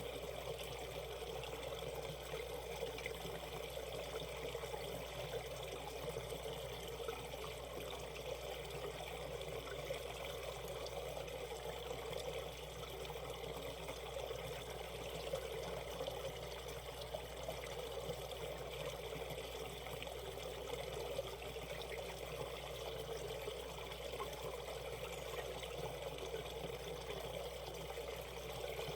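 Shallow valley stream flowing: a steady babble of running water.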